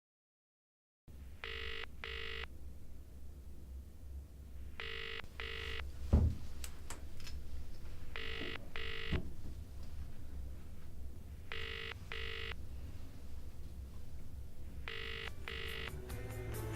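Telephone ringing in the British double-ring pattern, ring-ring then a pause, five times over, about every three and a half seconds. A single low thump sounds about six seconds in.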